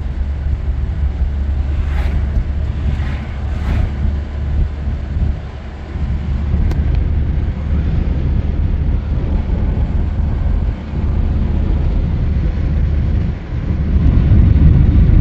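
Car driving on a snow-covered road, heard from inside the cabin: a steady low rumble of road and wind noise, dipping briefly a few times.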